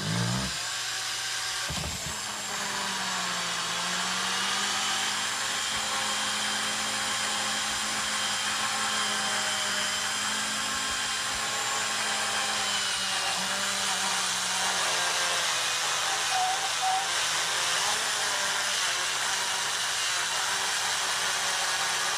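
A small power tool's electric motor running steadily throughout, its pitch sagging and recovering slightly under load, while an engine valve is polished with wet 800-grit sandpaper.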